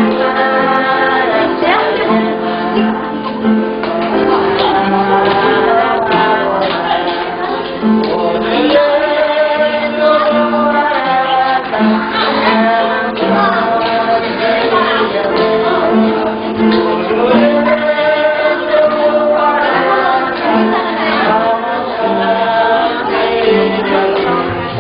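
Church praise song: men's and women's voices singing a hymn together in long phrases over steady instrumental accompaniment.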